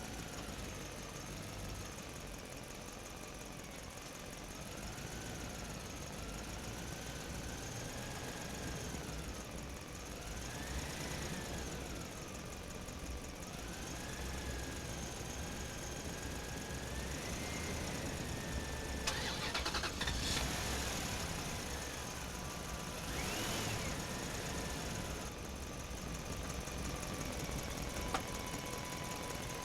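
Toy dump truck's small motor whining, its pitch rising and falling over and over as it speeds up and slows, with a short burst of noise about two-thirds of the way through.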